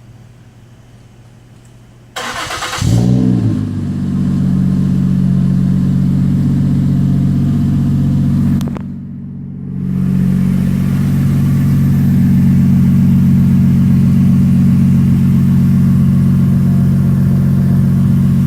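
2007 Ford Edge's 3.5-litre V6 starting through an exhaust with the mufflers removed and only a single straight resonator. About two seconds in the starter cranks briefly and the engine catches with a quick flare of revs, then settles into a steady, loud idle.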